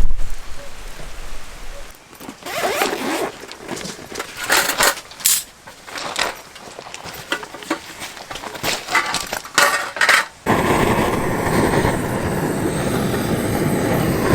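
Gear being handled: an irregular string of sharp clicks, clinks and scrapes, then a steady rushing noise sets in about ten seconds in.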